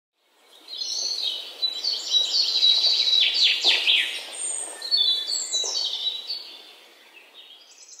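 Recorded birdsong: many birds chirping with quick high chirps and sweeping whistles, fading out near the end.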